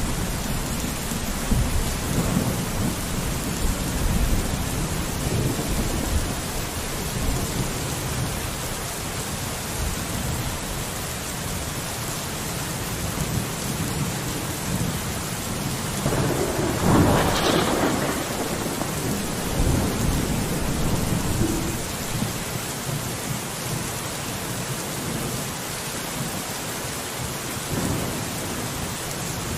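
Steady rain falling on a window, with thunder rumbling low underneath and a louder peal of thunder swelling and fading about halfway through.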